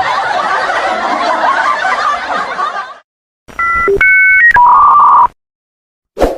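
A crowd laughing, cut off about three seconds in. After a short silence come a few quick electronic tones, each a pair of pitches, ending in a longer single steady beep. A short dull thud follows at the very end.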